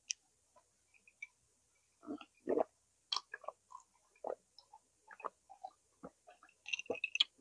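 Close-up chewing and mouth sounds of someone eating grilled chicken and rice: scattered short, faint smacks and clicks, thickest near the end.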